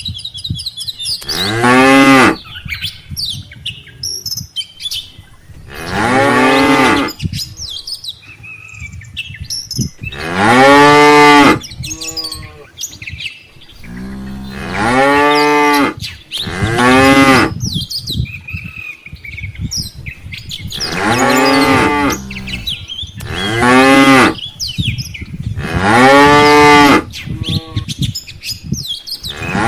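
Cattle mooing again and again: about nine long, loud moos a few seconds apart, each bending up and then down in pitch.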